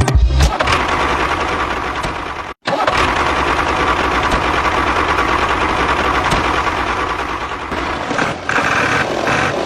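Small motor of a miniature DIY model tractor running steadily. It cuts out for a moment about two and a half seconds in and then runs on.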